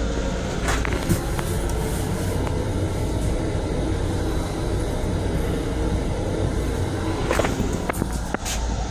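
Steady low rumble and hum inside an LIRR M7 electric railcar, with a few sharp clicks and knocks about a second in and again near the end.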